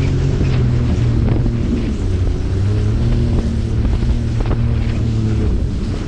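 Jet ski engine running steadily under way, its pitch wavering a little, with wind buffeting the microphone and a few brief splashes of water.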